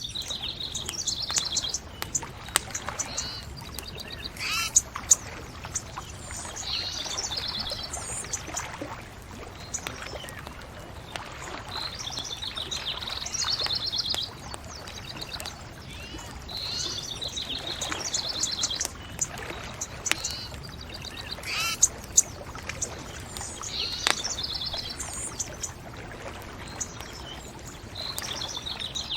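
Songbirds singing, a trilled phrase repeated every few seconds, over a crackling bonfire with scattered sharp pops.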